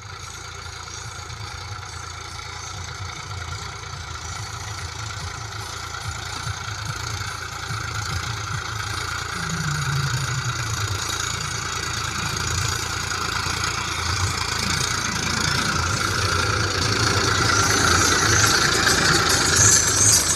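Massey Ferguson 1035 DI tractor's three-cylinder diesel engine running steadily, growing gradually louder, with a brief drop in pitch about halfway through.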